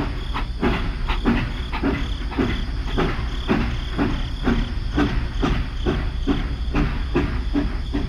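Battery-powered toy steam train running along plastic track, with a regular clacking beat about two or three times a second over the steady hum of its motor.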